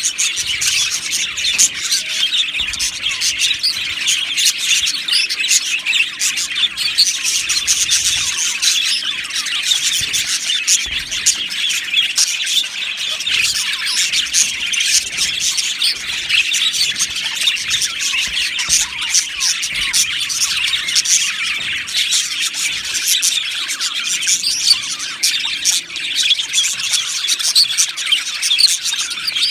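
A flock of budgerigars chattering and chirping at once, a dense, unbroken warble of many overlapping calls.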